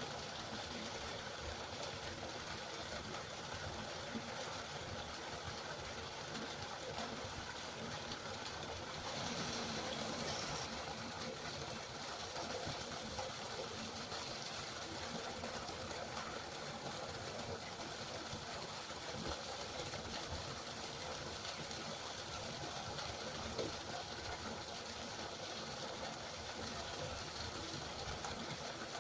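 Steady rush of a river's flowing water, swelling slightly about nine seconds in.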